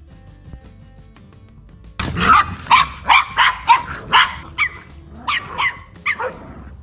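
A dog barking in a quick run of sharp barks, about two to three a second, starting about two seconds in, over faint background music.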